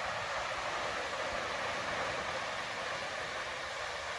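Steady rushing hiss of flowing stream water, even and unbroken, with faint low knocks underneath.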